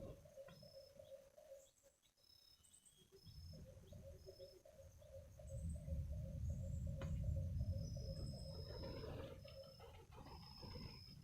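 Wild birds calling: short high chirps repeat over a lower call that pulses rapidly. A low rumble runs underneath from about halfway.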